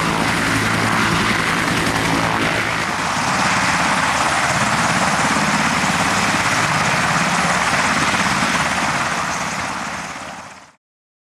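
Military helicopter flying past, its rotor and turbine sounding loud and steady. It fades out near the end and then cuts to silence.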